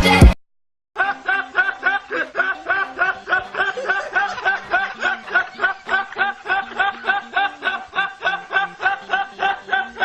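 A laughing sound effect: a fast, even snickering giggle of short, high pitched syllables, about four to five a second, without a break. It starts about a second in, after a loud music clip cuts off and a brief silence.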